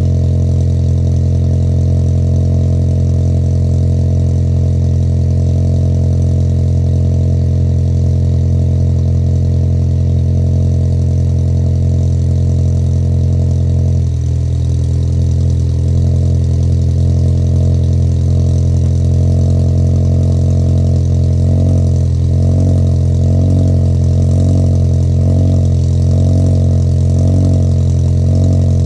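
Engine of a 2017 VW Passat R-Line with aftermarket intake, APR downpipe and custom exhaust, idling with a steady deep drone. The note shifts slightly about halfway through. It then takes on a slow, rhythmic wavering for the last several seconds.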